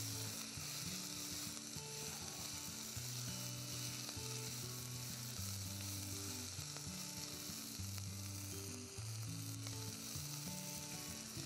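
Sweet corn kernels with onion, garlic and paprika sizzling steadily in melted coconut butter in a saucepan while a spoon stirs them. Soft, low sustained notes change pitch underneath.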